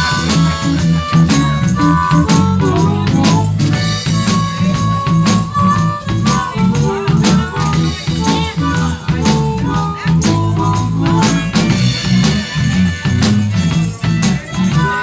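Live blues band playing an instrumental break of a shuffle: drums keeping a steady beat, a bass line, and a lead instrument holding and bending single notes over the top, with shaker or tambourine percussion.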